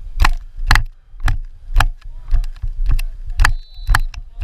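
Footsteps and camera-handling knocks and rattles, about two a second, as the person wearing or carrying the camera walks, with a short faint high tone near the end.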